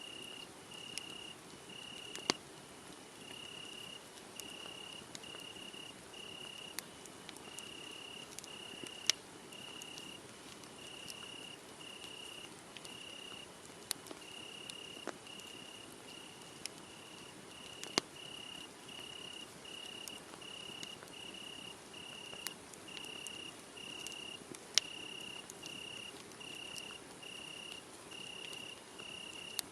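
Crickets chirping in an even, continuous run of high pulses, over a wood fire crackling with scattered sharp pops and a few louder snaps.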